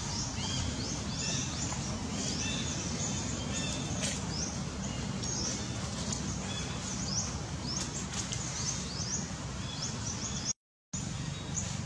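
Birds chirping repeatedly in the background, short high calls a few times a second, over a steady low outdoor rumble. The sound cuts out for a moment near the end.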